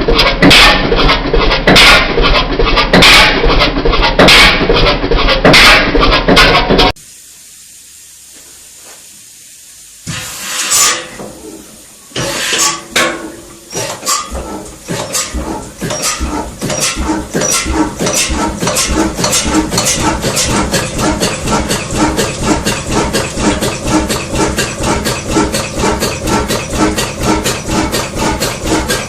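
Old diesel engines: the first runs with a loud steady rhythmic knock and cuts off about 7 seconds in. A second old diesel then starts, with a short hiss followed by separate slow firing strokes that quicken into a steady running beat.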